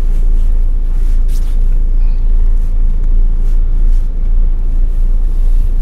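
Steady low engine rumble of a vehicle, heard from inside the cab.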